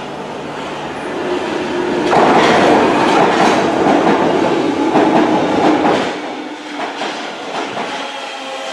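London Underground tube train running into the station along the platform, wheels rumbling and clattering over the rail joints. The sound swells about two seconds in as the front reaches the platform and eases a little after about six seconds, with a thin steady whine under the clatter.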